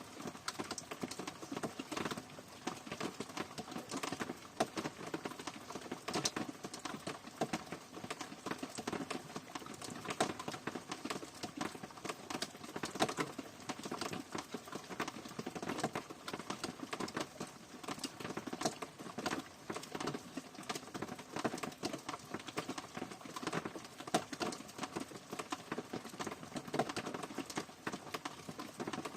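Rain falling, with individual drops pattering in a dense, irregular stream of taps.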